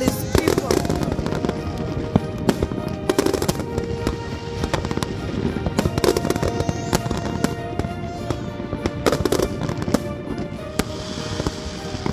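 Fireworks bursting in quick, irregular succession, a dense run of sharp bangs and crackles, with music playing underneath.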